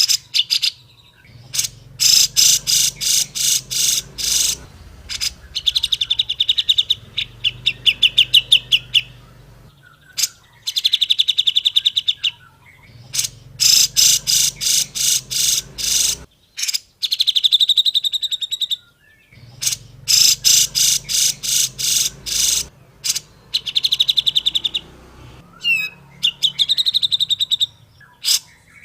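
Grey-cheeked bulbul (cucak jenggot) singing loud phrases of rapid, sharp notes. Each phrase lasts a few seconds and ends in a fast trill, and the phrases repeat after short pauses.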